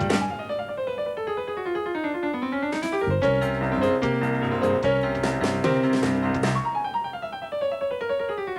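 Piano played fast, with long cascading runs: a falling run, then a rising one about two seconds in, over held bass notes in the middle, and another falling run near the end.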